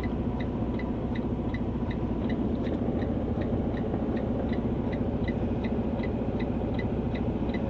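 Semi-truck diesel engine idling, heard from inside the cab: a steady low rumble, with a light ticking about three times a second.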